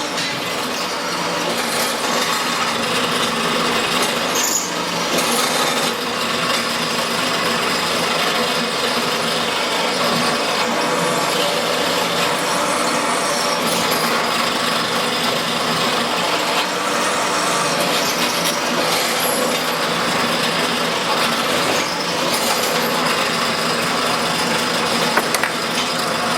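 A small machine running steadily with a rapid, dense mechanical clatter.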